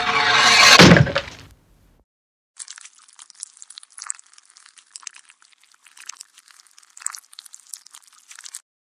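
Guillotine sound effect: a falling swish that ends in a heavy chop about a second in. After a short gap comes a bleeding sound effect, a dense, irregular crackle of small clicks that runs until near the end.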